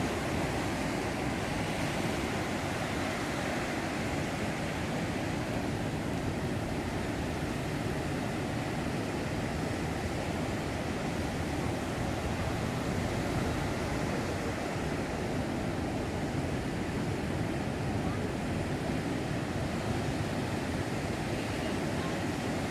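Ocean surf on a beach during a heavy groundswell (mar de leva): a steady, unbroken rush of breaking waves with no separate crashes standing out.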